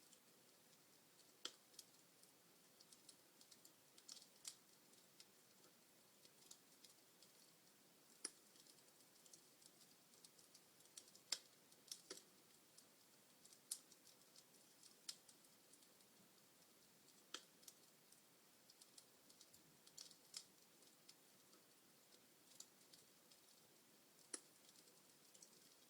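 Burning logs in a fireplace crackling quietly: irregular sharp pops and snaps at uneven intervals, a few much louder than the rest, over a faint steady hiss.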